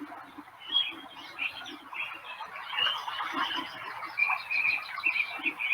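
Birds singing: a busy run of short chirps and brief trills, several overlapping calls.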